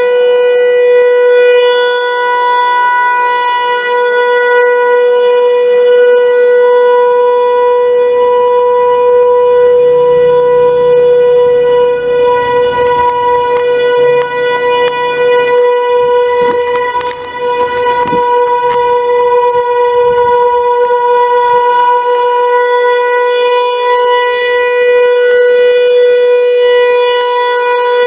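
Outdoor warning siren sounding a loud steady tone: one held pitch with its overtones.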